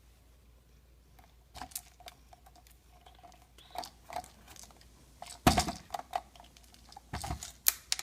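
A cat pawing at a Trixie Mad Scientist plastic food-puzzle board to get dry food out: scattered plastic clicks and knocks, few at first and busier later, the loudest about five and a half seconds in.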